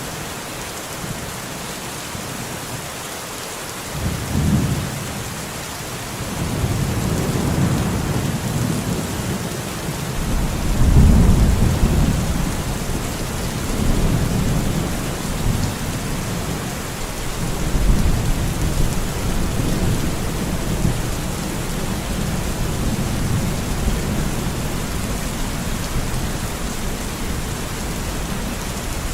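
Steady rain hissing on a forest canopy, with a long roll of thunder that starts about four seconds in, is loudest around eleven seconds and keeps rumbling in waves.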